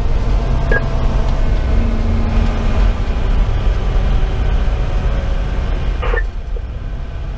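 Fire engine's 470 hp Detroit Series 60 diesel running steadily under way, a low, even drone. Two short electronic tones cut in, about a second in and again about six seconds in.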